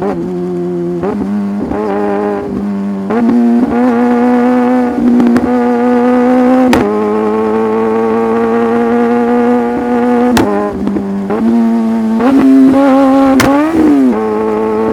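Sport motorcycle engine running while riding, heard from the bike itself. It holds a steady high note at fairly even revs, with small rises and falls in pitch and brief breaks in the note several times.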